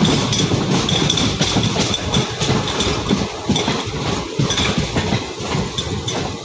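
Running noise of a moving passenger train heard through an open, barred coach window: a steady rumble of wheels on the rails with irregular clicks and clatter from the track.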